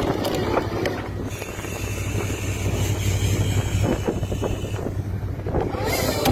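Fishing boat's engine running steadily, with wind blowing on the microphone.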